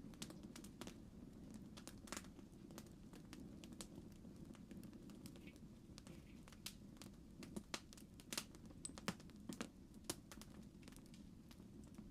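Faint campfire crackling: irregular sharp pops and snaps over a low steady rumble.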